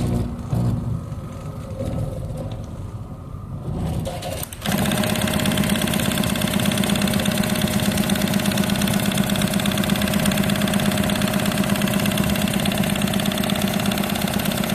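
Industrial sewing machine for heated eye masks: a few quieter mechanical movements at first, then about four and a half seconds in it starts stitching at high speed, a loud, fast, even rhythm that keeps going steadily.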